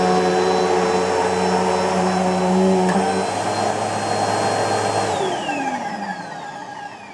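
Bissell PowerForce Helix Turbo bagless upright vacuum cleaner running steadily, a low hum in it dropping out about three seconds in; at about five seconds it is switched off and the motor's whine falls in pitch as it spins down.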